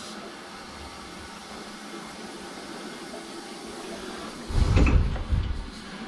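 Steady hiss of water flowing into a boiler through its fill line as the boiler auto-fills. About four and a half seconds in, a loud low rumble lasts roughly a second.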